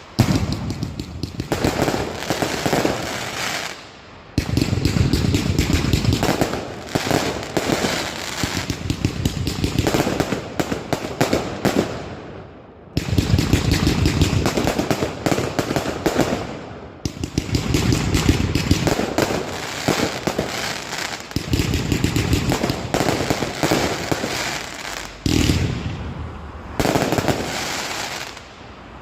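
Fireworks going off in dense, rapid volleys of cracks and bangs, with brief lulls a few times.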